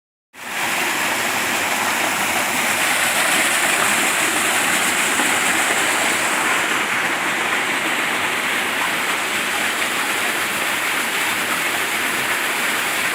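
Waterfall: falling water rushing in a steady, even roar that starts a fraction of a second in.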